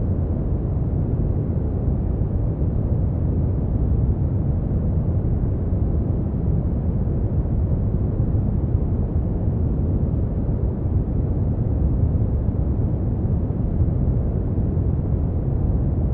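Brown noise: a steady, deep rumbling hiss with most of its weight in the bass and little above the upper midrange, unchanging throughout.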